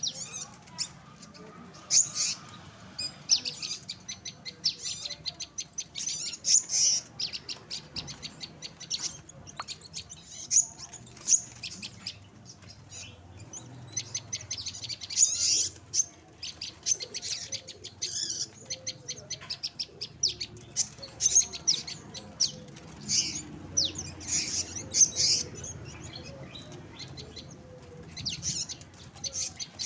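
Many small birds of several kinds chirping together: a dense, overlapping run of short, high chirps and twitters.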